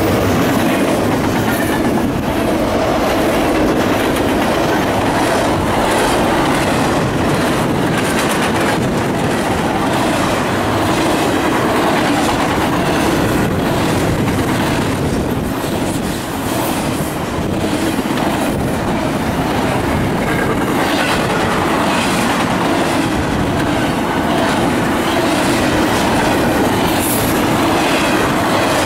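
A CSX double-stack intermodal freight train of container well cars passing close at speed. Its steel wheels make a loud, steady rumble on the rail, with repeated clicking as the wheel trucks roll over the rail joints.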